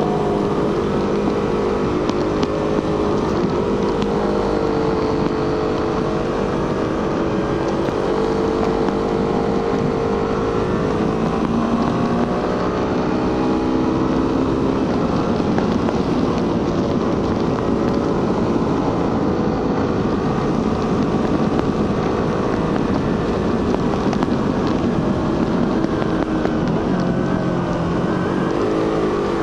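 Suzuki GSX-R150's 150cc single-cylinder engine and stock exhaust under way on the road, its note rising and falling with the throttle, with a quick drop and climb in pitch near the end.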